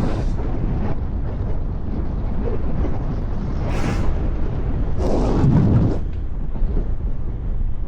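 Wind rushing and buffeting over the microphone of a moving road bike, a steady deep rumble with louder gusts about four seconds and five to six seconds in.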